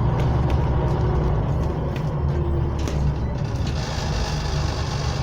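Scania N94UD OmniCity bus's diesel engine running on the move, heard from inside the cabin as a steady low drone with small rattles and clicks. A brighter hiss comes in about four seconds in.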